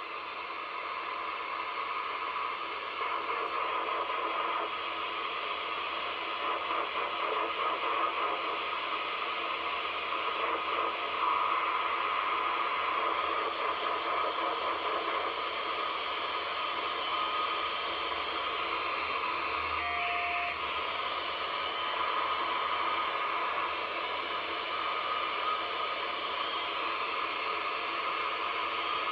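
Radio receiver hissing with static. A stronger band of signal noise near 1 kHz fades in and out, and a short beep sounds about two-thirds of the way through. The listener suspects skip and packet radio, but is unsure what it is.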